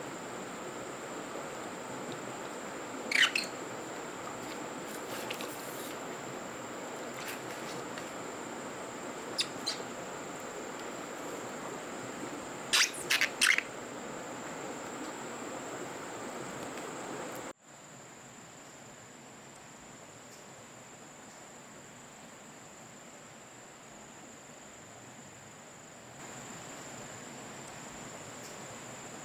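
Rainforest ambience: a steady high insect drone throughout, with a few short, sharp bird calls in the first half. A steady rushing noise runs under them and cuts off abruptly a little past halfway, leaving the insects quieter.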